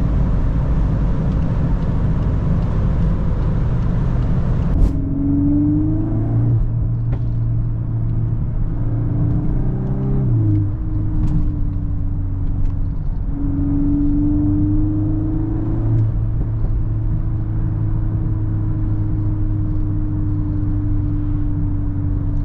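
VW Golf 8R's turbocharged 2.0-litre four-cylinder with Akrapovic exhaust, heard while driving: the engine note climbs, drops sharply about ten seconds in as with a gear change, climbs again and then settles to a steady cruise. A loud hiss of road and wind noise covers the first few seconds and then cuts off suddenly.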